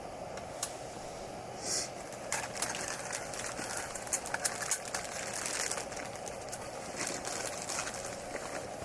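Wood campfire crackling, with irregular sharp pops and snaps that grow busier about two seconds in, over a steady hiss.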